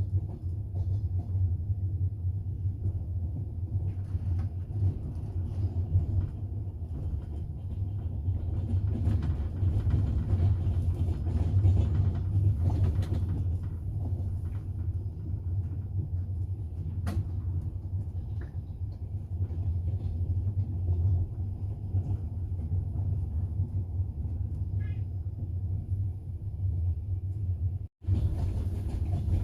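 Passenger train in motion heard from inside the carriage: a steady low rumble of the wheels and running gear on the rails, with a few faint knocks. The sound cuts out for an instant near the end and comes back a little brighter.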